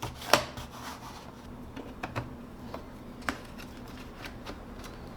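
Bottom cover of a Lenovo Slim 5 laptop being pried off, its clips letting go with a few sharp clicks, the loudest about a third of a second in and others around two and three seconds in.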